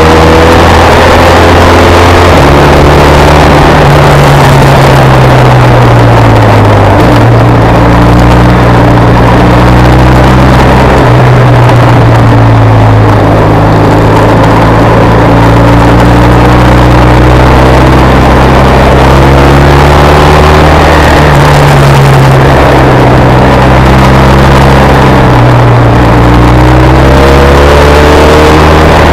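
BMW R1200 RS boxer-twin engine pulling in third gear up a winding climb, its revs rising and falling with the throttle through the bends, over a steady rush of wind noise.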